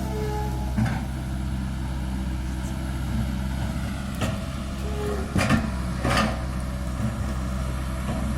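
Komatsu PC160-8LC excavator's diesel engine running steadily while it strips topsoil. Several short knocks and scrapes cut in, the loudest about five and a half and six seconds in.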